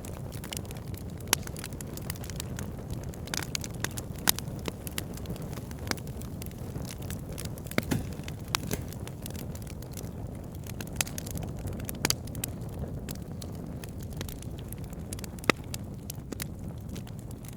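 Wood fire burning with crackling logs: a steady low rush of flame with frequent sharp crackles and pops, a handful of them louder than the rest.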